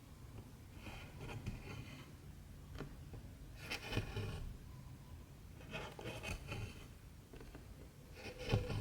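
Cotton embroidery thread being pulled through 14-count cross-stitch fabric, a soft scratchy rasp repeated several times, with a few light clicks of the needle.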